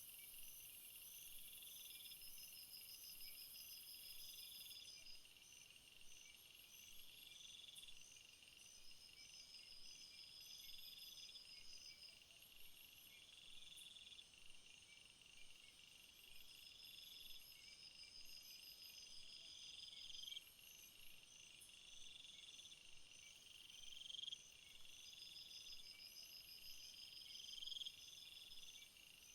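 Faint chorus of crickets and other field insects chirping, several high-pitched pulsed songs overlapping, one trill repeating about every two seconds.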